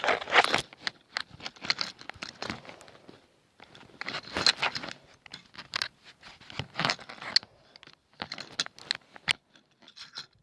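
Small plastic objects, such as toy cars, being rummaged through and handled: irregular clicks, taps and rustling clatter.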